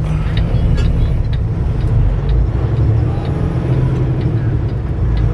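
Semi-truck on the move: a steady low engine drone and road rumble, with a few light rattles.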